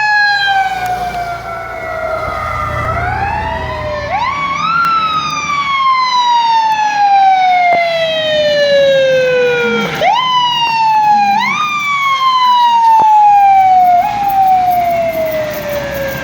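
Fire truck siren sounding loud, its pitch climbing quickly and then sliding slowly down, over and over, about four times, with low engine rumble underneath.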